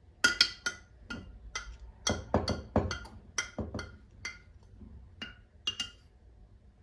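Dishes and cutlery clinking and knocking against each other: about fifteen sharp, uneven clinks and taps, some with a short ring like ceramic or glass, busiest in the middle.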